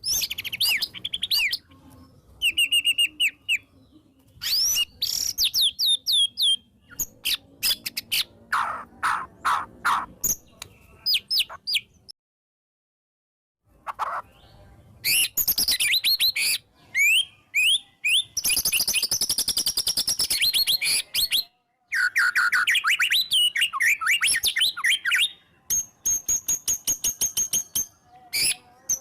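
White-rumped shama (murai batu) singing a loud, varied song: rapid-fire strings of repeated notes alternating with clear, gliding whistled phrases. There is a brief dead-silent break about twelve seconds in.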